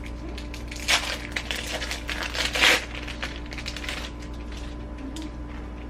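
Plastic wrapping crinkling in short rustles as sliced cheese is unwrapped and laid on a bagel, loudest about a second in and again near the middle, over a steady faint hum.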